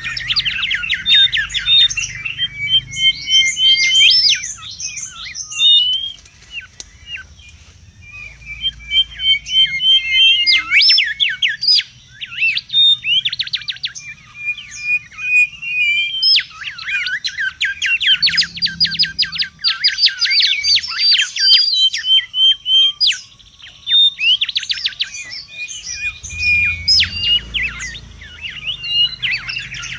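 Mangrove whistler calling busily: fast runs of sharp rising-and-falling notes alternating with short, level whistled phrases, in bursts with brief lulls.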